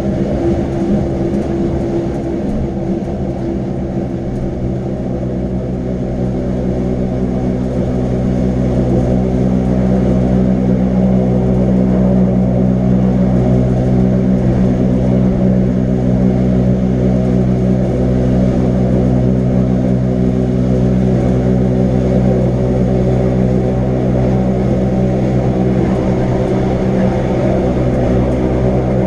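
Train of the Wengernalp rack railway running, an electric train's steady droning hum of motors and gearing, a little louder after about eight seconds.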